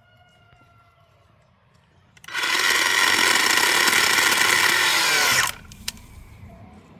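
Worx battery-powered chainsaw running in one burst of about three seconds, starting a couple of seconds in, as a steady high whine; it cuts off and its pitch drops as the motor spins down when the trigger is released.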